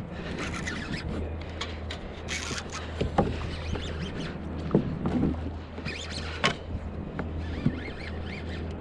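Water splashing and lapping around a fishing kayak, with scattered short knocks and a steady low rumble underneath.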